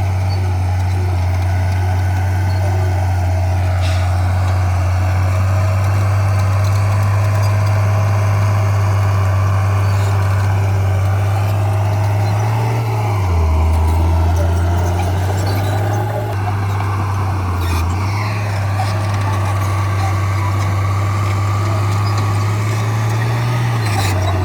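Heavy diesel engine of earthmoving machinery running steadily under load, its note dropping lower for a second or so about halfway through and dipping briefly twice more later.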